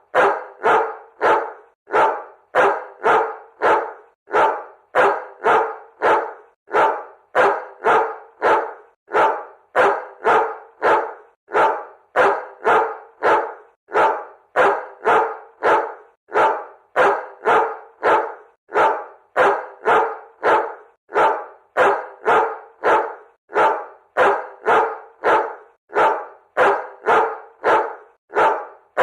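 A dog barking over and over in an even, unbroken rhythm of about two barks a second.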